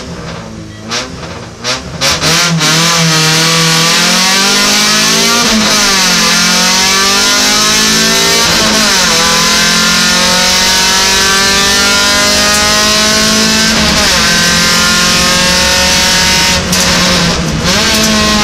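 Opel Kadett GSi race car's engine heard from inside the cabin: short revs on the start line, then a hard launch about two seconds in and full-throttle acceleration. The pitch climbs through each gear, with four upshifts.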